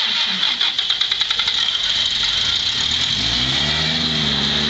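Winch motor whining steadily as it hauls a Toyota 4Runner up a rock ledge, with a quick run of clicks early on. About halfway through, the vehicle's engine revs up and holds at a raised speed under the winch.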